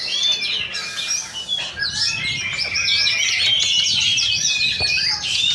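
Several oriental magpie-robins (kacer) singing at once, a dense tangle of overlapping whistles and chirps that grows fuller about two seconds in.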